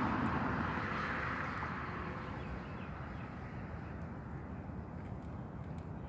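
A passing car's noise fading away over the first couple of seconds, leaving a steady low outdoor background hum.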